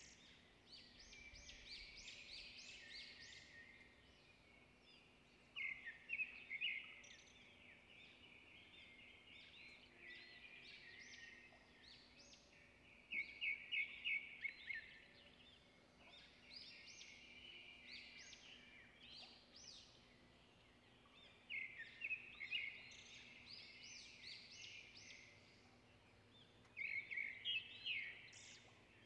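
Birds singing: phrases of quick, high chirps come in louder clusters every several seconds, with softer twittering between.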